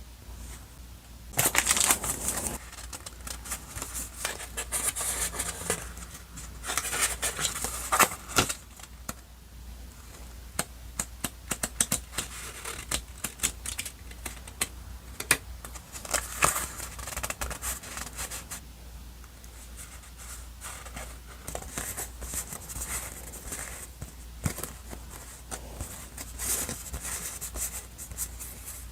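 Paper and stickers being handled on a journal page: rustling, peeling and small taps and clicks, coming in bursts every few seconds.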